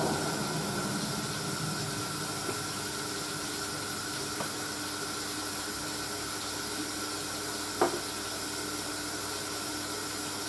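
Hoover A3060 Electronic 1100 washing machine taking in water for its second rinse: a steady rush of water filling the drum, with a sharp click about eight seconds in.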